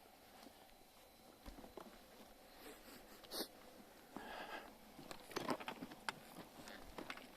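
Faint, scattered rustles and light clicks, like footsteps and handling in forest undergrowth, growing busier from about five seconds in.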